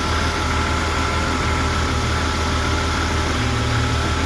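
Bentley engine idling steadily, a low even hum with a steady higher whine over it.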